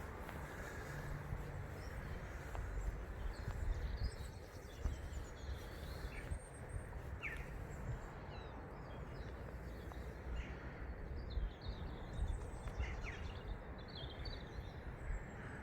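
Wild birds chirping in short, scattered calls over a steady low rumble of outdoor background noise.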